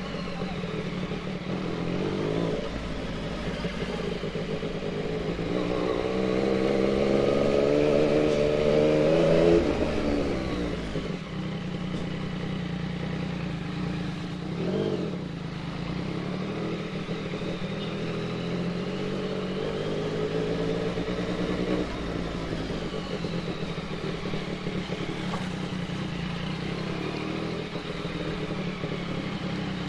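Yamaha MT-09's inline three-cylinder engine running at low revs, rising in pitch as it accelerates from about five seconds in, dropping back at about ten seconds, then holding a steady low run.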